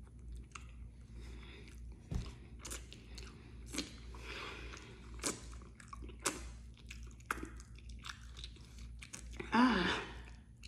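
Close-miked mouth chewing of a soft, moist food, with scattered wet smacks and clicks. Near the end comes a brief voiced sound that falls in pitch.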